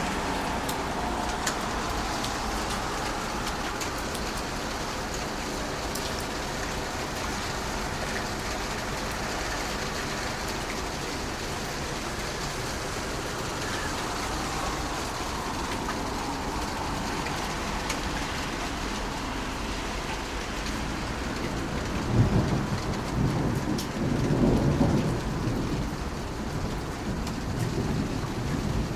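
Heavy rain pouring steadily, with a rumble of thunder breaking in about three-quarters of the way through and rolling on in swells for several seconds.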